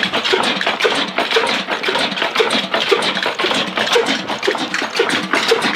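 Ruston diesel engine running steadily, a dense mechanical clatter with a regular beat about twice a second.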